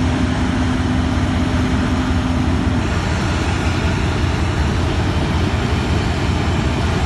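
Harvest machinery engine running steadily, a constant rumble and hiss, with a faint steady hum that stops about three seconds in.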